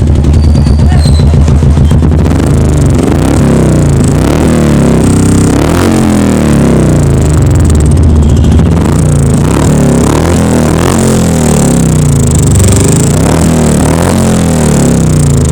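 Royal Enfield Bullet single-cylinder engine running through a custom aftermarket exhaust, idling and being revved up and down several times, loud throughout.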